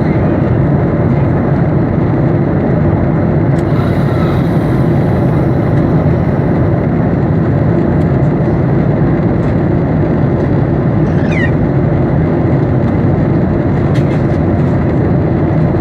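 Steady, loud cabin noise of a Boeing 737 in flight, the engines and rushing airflow heard from inside the passenger cabin, with a few faint clicks.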